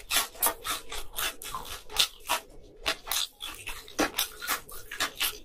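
Close-miked crunching of a batter-fried shrimp being chewed, a quick irregular run of crisp crackles.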